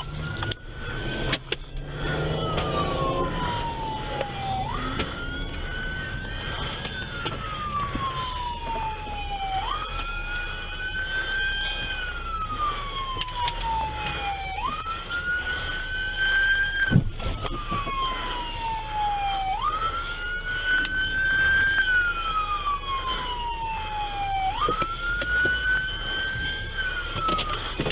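Police car siren on a slow wail, about six cycles: each one rises quickly, then falls slowly over a few seconds. A second, fainter and higher siren sweeps alongside, over a steady low vehicle rumble.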